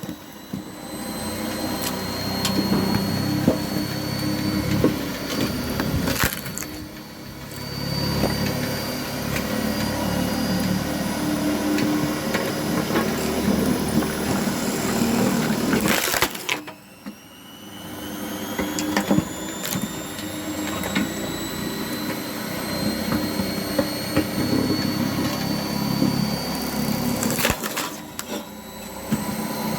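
Homemade log splitter driven by a 500 W, 12,400 rpm washing-machine motor, splitting wood: a high motor whine over loud cracking and crushing of wood. Twice the sound drops away suddenly, and each time the whine climbs in pitch as the motor speeds back up.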